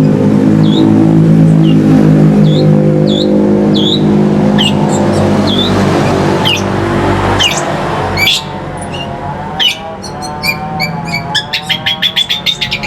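Songbird calling short rising chirps about every half second over a loud steady low drone. Near the end the calls break into a fast run of sharp, clicking notes.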